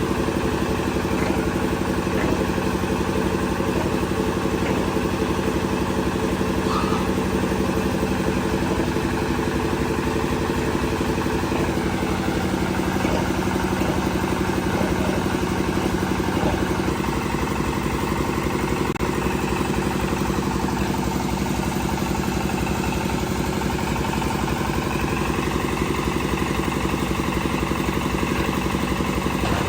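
An engine running steadily, its note shifting slightly about halfway through.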